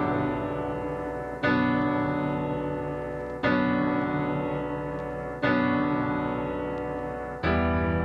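Background piano music: full chords struck about every two seconds, each fading away before the next.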